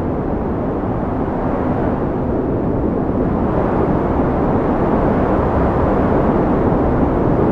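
Strong wind, a steady low rushing noise that slowly builds in strength.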